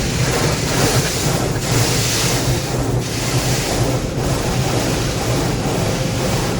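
Automatic tunnel car wash heard from inside the car: a steady rush of water spray and wash equipment working over the body, with a constant low hum under it and a brighter hiss of spray about two seconds in.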